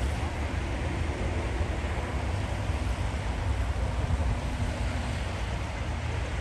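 Steady low rumble of wind buffeting the microphone, with highway traffic noise underneath.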